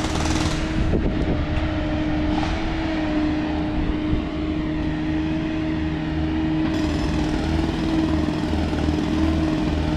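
Construction machinery running with a steady hum over a low rumble.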